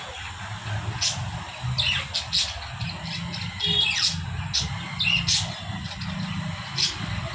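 Birds giving short, sharp squawks and chirps, a few of them falling in pitch, about one call a second, over a steady low hum.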